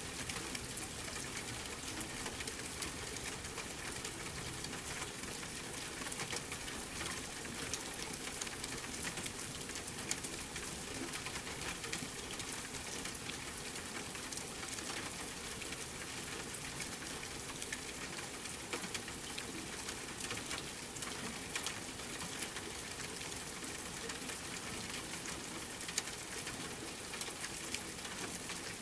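Steady rain with the scattered crackles and pops of a wood fire burning in a fireplace.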